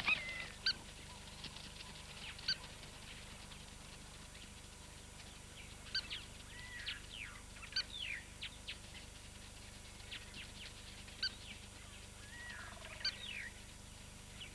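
Spur-winged plovers calling: sharp, short high notes, scattered through and bunched about six to eight and eleven to thirteen seconds in, as a male chases rivals off his territory. A faint steady low hum runs underneath.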